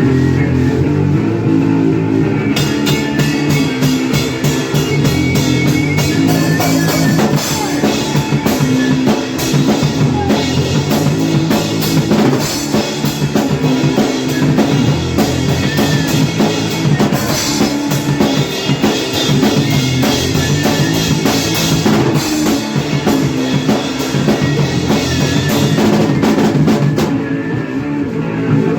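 Hardcore punk band playing 80s-style riffs on distorted electric guitar and bass. The drum kit and cymbals come in about two seconds in and drop out near the end, leaving the guitars.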